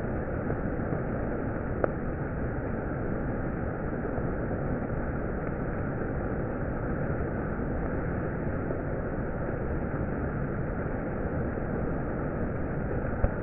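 Steady hiss of heavy monsoon rain, with two sharp ticks, one about two seconds in and one near the end.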